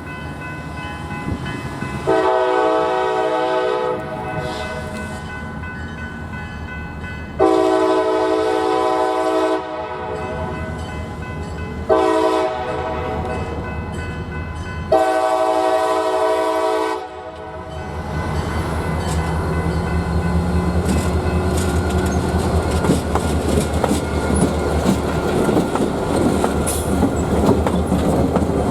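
Freight locomotive's multi-tone horn sounding the grade-crossing signal: long, long, short, long. The train then rolls past, a growing rumble with wheels clicking over the rail joints.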